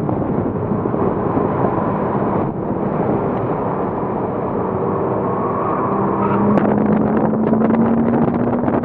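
2007 Porsche Cayman S flat-six engine running hard at speed under a dense wash of wind and road noise. Its note climbs steadily over the last few seconds as the car accelerates.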